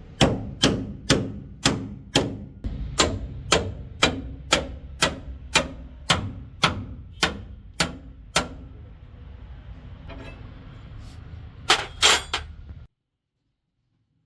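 Hammer blows on metal, a steady run of about seventeen strikes at roughly two a second, then after a pause two quick blows close together. The sound then cuts off abruptly.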